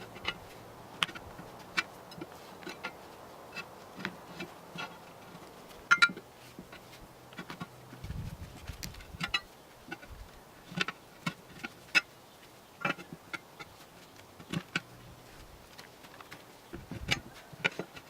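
Irregular light clicks and knocks, a few sharper ones among them, over a faint low buzz.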